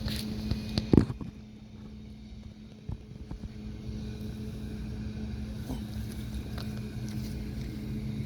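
Rapid clicking ending in one loud knock about a second in, then the steady low hum of an idling vehicle engine.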